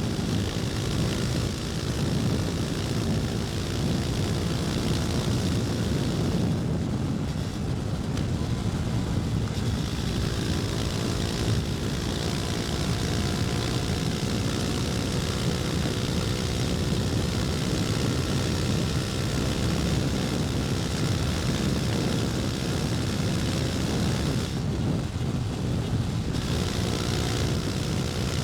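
KTM Duke 250's single-cylinder four-stroke engine running steadily under way, with wind rushing over the microphone. The wind hiss eases for a couple of seconds about seven seconds in and again near the end.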